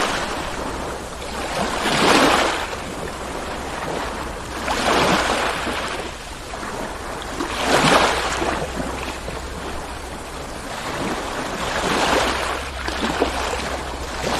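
Ocean waves breaking and washing in, the surf swelling and fading every two to four seconds, loudest about two and eight seconds in. A steady low rumble runs underneath.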